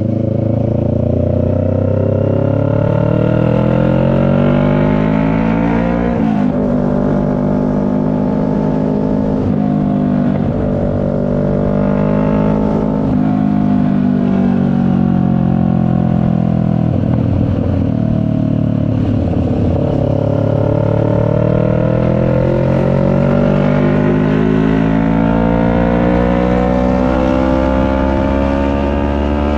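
CFMoto 400NK's parallel-twin engine accelerating, its pitch climbing through the revs, dropping sharply at a gear change about six seconds in, then easing off and climbing again several times.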